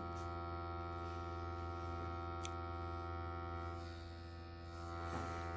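A steady electrical hum with many overtones, dipping slightly in level about four seconds in.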